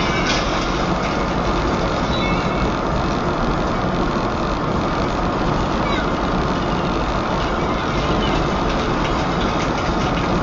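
Steady vehicle engine and road noise, even and unbroken.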